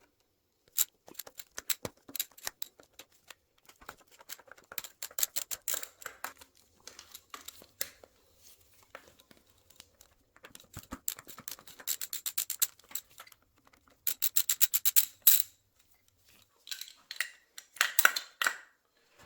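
Hand tools working on a motorcycle engine while the carburettors are being removed: quick runs of even clicks from a ratchet, the loudest run about two thirds of the way in, mixed with scattered taps and knocks of metal parts being handled.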